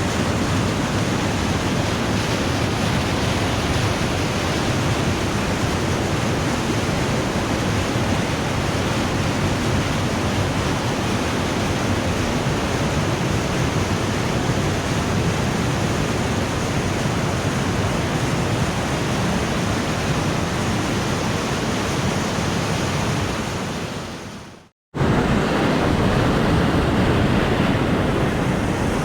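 The Putna waterfall rushing, a loud, steady roar of falling water. Near the end it fades out to a brief moment of silence and comes straight back.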